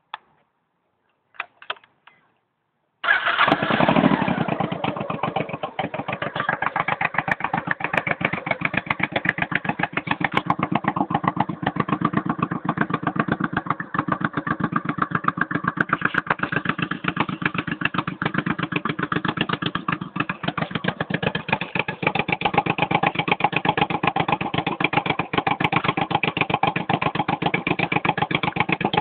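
1986 Honda Shadow VT700C V-twin motorcycle engine, fitted with new slash-cut mufflers, catching suddenly about three seconds in and then idling with a fast, even exhaust pulse.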